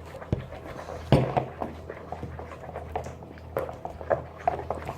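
Slime being stirred in a bowl: irregular wet squelches and small clicks, the loudest about a second in.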